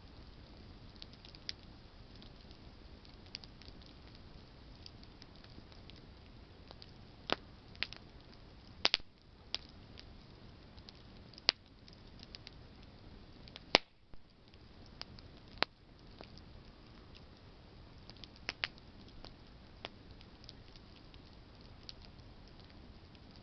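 Campfire of burning branches crackling: a steady low hiss with scattered sharp pops and snaps, the loudest coming in a cluster from about seven to sixteen seconds in.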